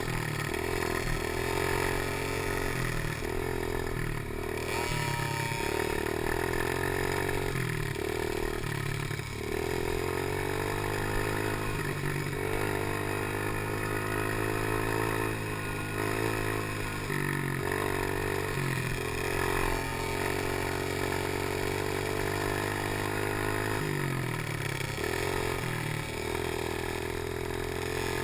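Small engine of a Chinese PY90 90cc geared motorcycle running continuously, its pitch climbing and dropping back over and over as the throttle is worked around the track.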